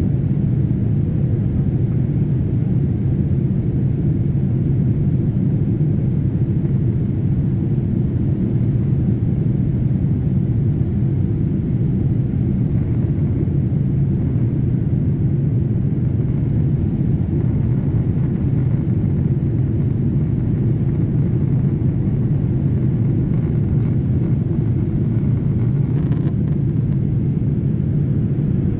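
Airliner cabin noise in flight: a steady, even low rumble that does not change.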